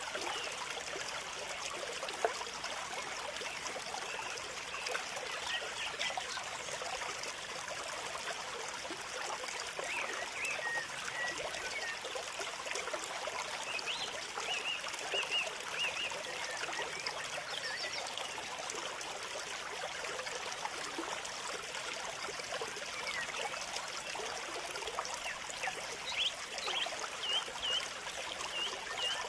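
Water trickling steadily, with small birds giving short, high chirps now and then, in clusters near the middle and near the end.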